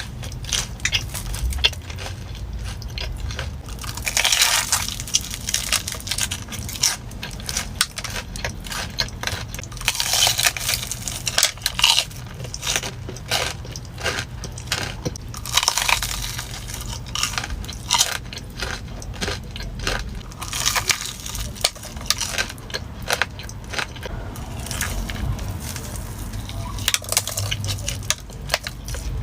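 Close-up eating sounds of a sugar-coated Korean corn dog: crisp, crunchy bites and chewing, with a louder crunch about every five or six seconds.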